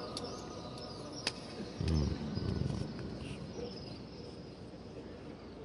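Faint bird calls over a quiet background, with two sharp clicks in the first second or so and a short low rumble about two seconds in, the loudest sound here.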